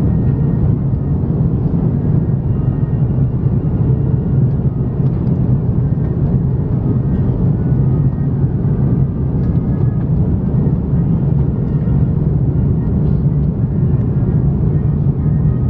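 Steady cabin drone of an Airbus A330-300 airliner in flight, heard from inside the passenger cabin: the low, even noise of its General Electric CF6 engines and the rushing air, with faint steady tones above it.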